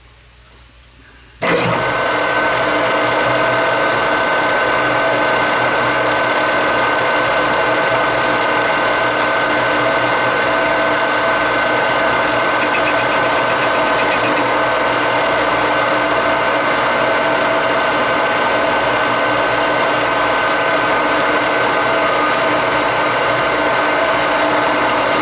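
Metal lathe starting suddenly about a second and a half in, then running steadily with a high, even whine over its hum.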